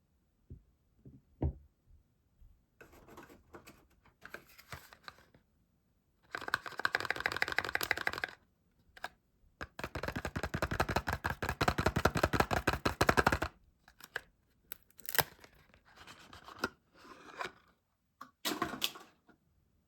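Soap packaging being torn open and unwrapped: a few soft taps, then spells of dense crackling and tearing from the wrapper, the two longest in the middle, with shorter rustles near the end.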